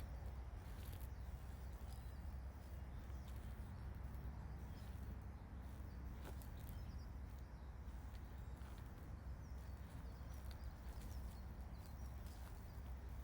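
Faint steady ambience: a continuous low rumble, with scattered faint high chirps and small clicks over it.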